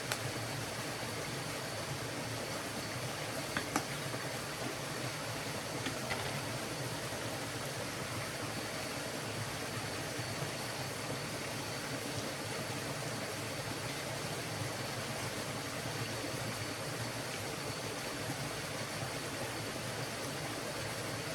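A forest stream rushing steadily, with a few faint clicks about four and six seconds in.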